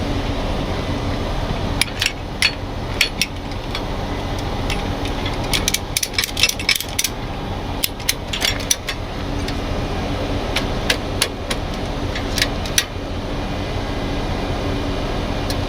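Sharp metallic clinks and clanks from metal hardware being handled, coming in clusters about two seconds in, from about six to nine seconds, and again around eleven to thirteen seconds, over an engine running steadily.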